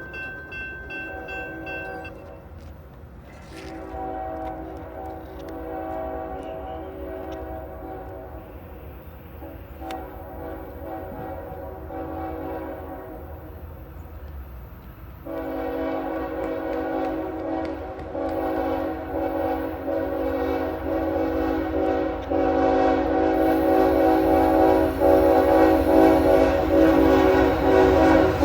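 Diesel freight locomotive's air horn blowing in long blasts, several notes sounding at once, growing louder as the train approaches, over a low rumble.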